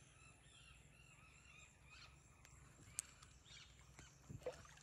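Near silence: faint outdoor ambience with faint bird calls, and a single sharp click about three seconds in.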